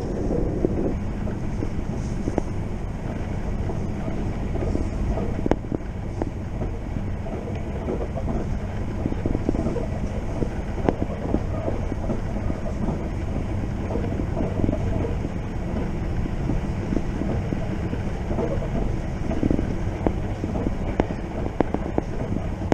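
Passenger train running at speed, heard from inside the carriage: a steady low rumble of wheels on the rails with scattered light clicks.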